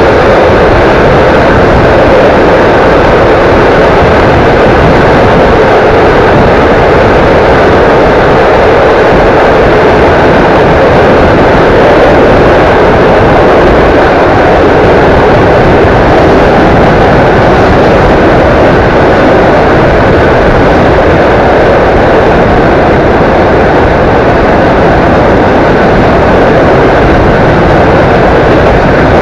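Steady, loud rushing roar of a freight train's open gondola wagons passing close alongside on the next track, heard from the window of a moving train, with wind buffeting low down.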